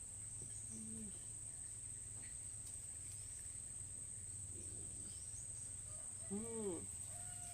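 Steady high-pitched drone of insects over a low steady hum, with a short faint voice-like sound near the end.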